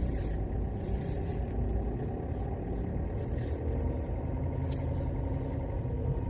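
A car running, heard from inside the cabin as a low, steady rumble.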